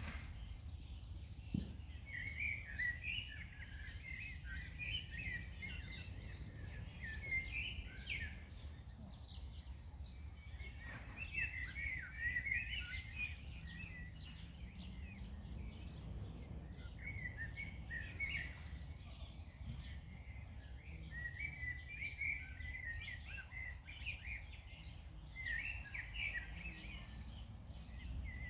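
Several songbirds singing and chirping in bursts of quick high notes, over a steady low background rumble.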